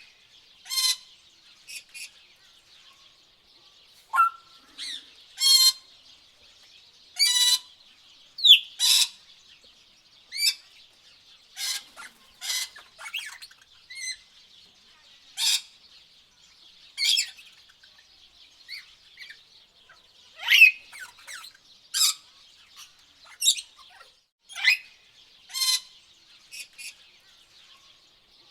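Tropical birds calling: short, loud, harsh calls come one every second or two, over a steady high background chorus.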